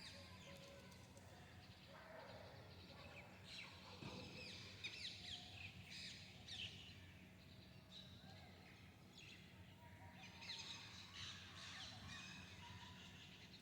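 Faint chirping of several small birds: quick, high, downward-sweeping calls in clusters, over a steady low hum.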